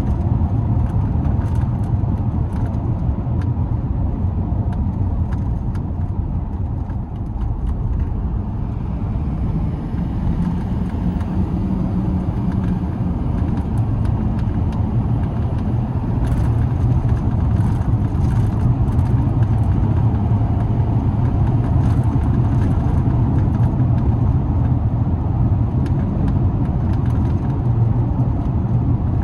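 2007 Chevrolet Silverado 2500HD pickup being driven: a steady low engine drone mixed with road noise, growing slightly louder in the second half.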